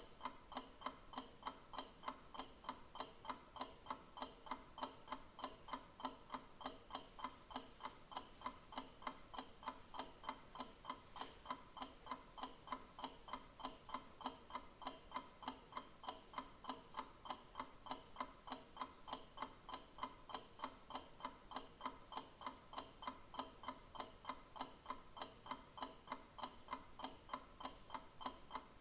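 A clock ticking steadily, with sharp, evenly spaced ticks several times a second.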